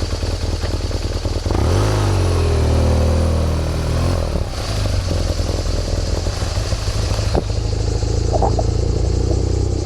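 BMW R nineT motorcycle's boxer-twin engine riding off: the revs climb about a second and a half in, drop back, and then the engine runs steadily under a constant rushing hiss.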